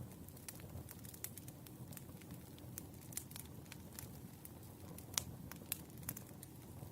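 Burning firewood crackling: irregular sharp pops and snaps over a steady low rumble of the flames, the loudest pop about five seconds in.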